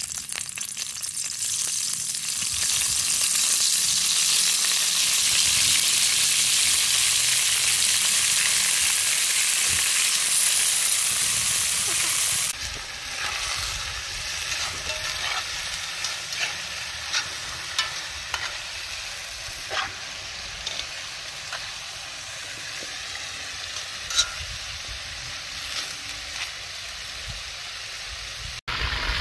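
Chicken pieces sizzling as they fry in hot oil in a cast-iron kazan over charcoal. The sizzle swells over the first few seconds, then drops suddenly about twelve seconds in to a quieter sizzle with scattered sharp clicks as a ladle moves the pieces around.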